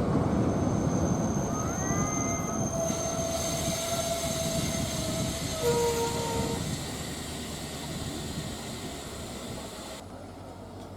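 Passenger train hauled by an EMD WDP-4D diesel locomotive running along the track, its rumble slowly fading away. A brief tone sounds about six seconds in.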